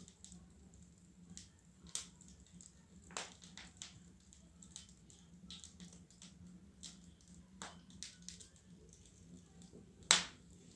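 Wood fire in a fireplace crackling, with irregular pops and snaps; the loudest snap comes near the end.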